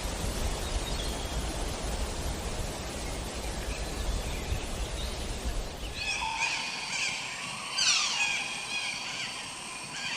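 A steady rushing outdoor background with low rumble. About six seconds in it cuts to birds calling, with a few sharp descending notes.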